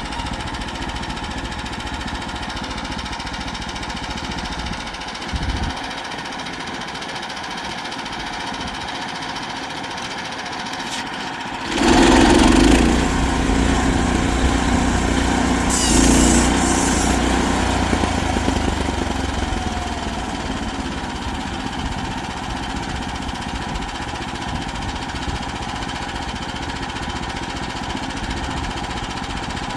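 Portable sawmill's engine running steadily. About twelve seconds in the sound jumps louder and heavier for several seconds, then eases back a little, as the mill works through a cut in a log.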